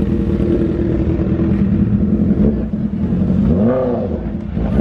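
Car engine running with a steady low drone, and a short rise and fall in pitch about three and a half seconds in.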